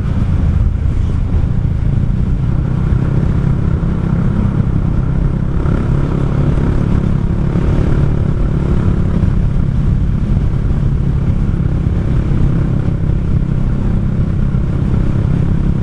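Kymco Xciting 400i scooter's single-cylinder engine running steadily at cruising speed, a low even drone with no change in pace.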